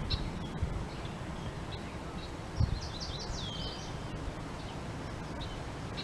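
Wild birds calling: a quick run of high chirps and a downward-sliding whistle about halfway through, with a few fainter chirps later, over a steady low rumble.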